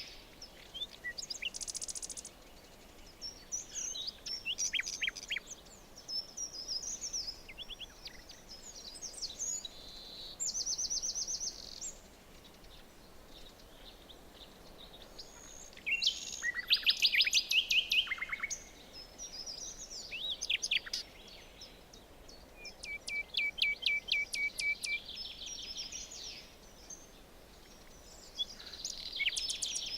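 Several songbirds singing and calling over a faint steady background hiss, with rapid trills and runs of repeated notes coming and going; the loudest trill is about halfway through.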